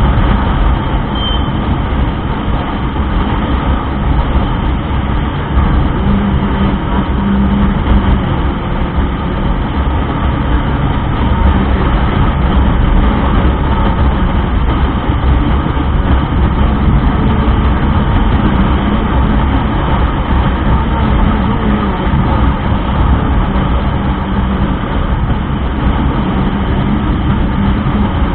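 Motorcycle on the move: steady wind rush on the microphone over the engine and road noise, with no breaks or sudden events.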